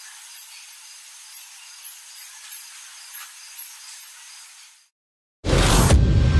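Short, very high-pitched chirps repeating irregularly about twice a second over a steady hiss. The sound fades out just before five seconds in, and after a brief silence loud music starts near the end.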